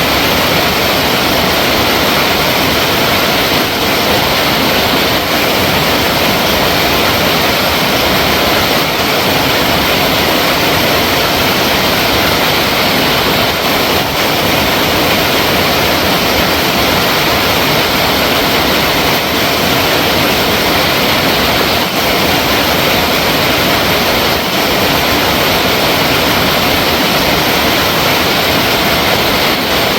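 Flowing water rushing steadily, a loud even wash of sound like a waterfall or fast stream.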